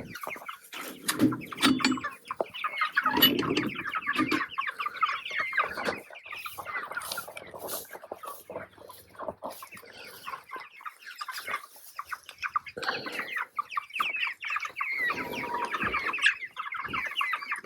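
A flock of young meat chickens clucking and peeping continuously, many birds calling over each other, with a few low thumps and rustles near the start and again later on.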